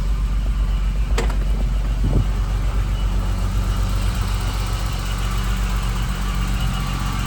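1986 BMW M635CSi's 3.5-litre straight-six idling steadily, with a sharp click about a second in.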